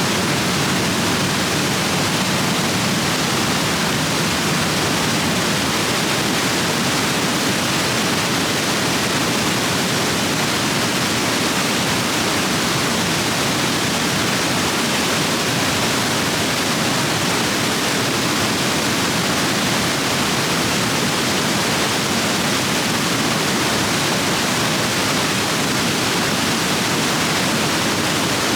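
Rain-swollen river rapids rushing over rocks, a steady, dense roar of water.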